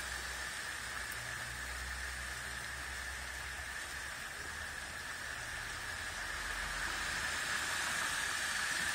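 Heavy rain pouring down onto a street running with muddy floodwater: a steady, even hiss that grows a little louder near the end.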